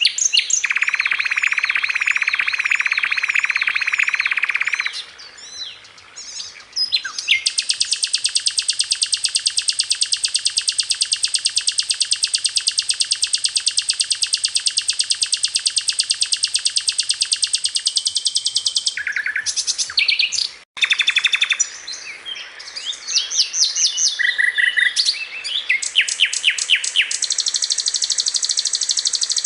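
Sikatan londo flycatcher song: long runs of very rapid, evenly repeated high notes in continuous trills, one lasting about ten seconds, broken by short sharp chips and a brief pause about two-thirds of the way through.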